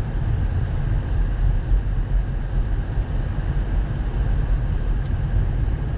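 Steady low rumble of a car driving on a snow- and ice-covered highway, heard from inside the cabin.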